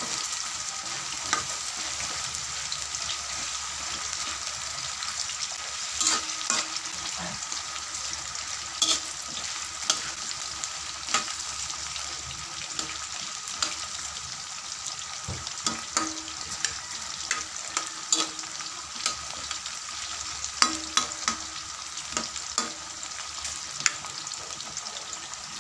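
Sweet potato sticks sizzling as they fry in plenty of hot oil in a wok. A spatula scrapes and taps against the pan now and then as the sticks are stirred.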